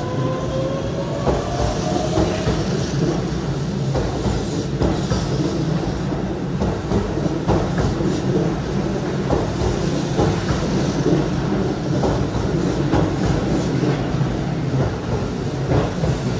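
Keihan 7200 series electric train pulling out of the station: its traction motors whine upward in pitch over the first couple of seconds, then its wheels clack over rail joints under a steady rumble as the cars pass close by.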